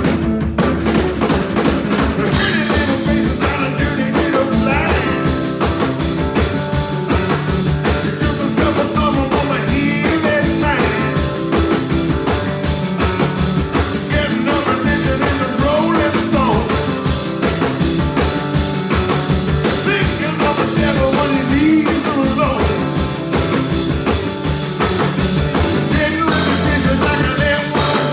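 Live blues trio playing an up-tempo number with a steady beat, the guitar and voice bending over the rhythm.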